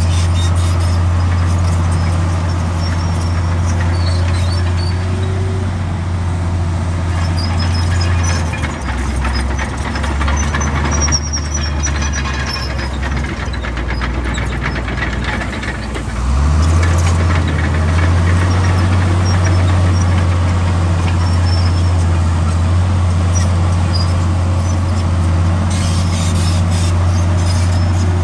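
Heavy diesel engine of earthmoving machinery running steadily. Its pitch drops for several seconds in the middle, then picks back up sharply. Short, high squeaks come and go over it.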